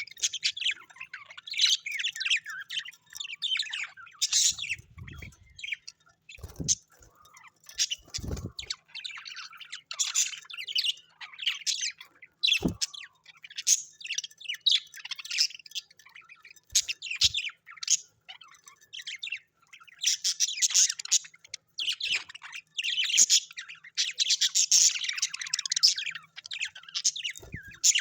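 Parrots chattering in quick chirps and squawks with hardly a pause, busiest in a long stretch near the end, with a few short low thumps in the first half.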